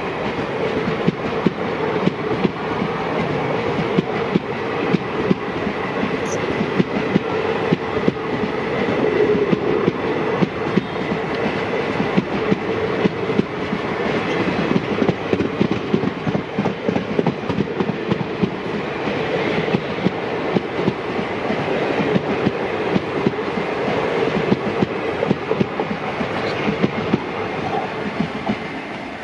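Passenger coaches of an Indian Railways express train rolling past close by: a continuous rumble with many sharp clicks as the wheels cross rail joints. The sound falls away near the end as the last coach goes by.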